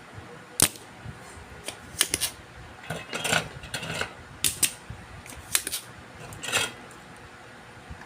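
Irregular sharp clicks and taps of small tools handled against a circuit board, with a couple of short scrapes, over a steady fan-like hum.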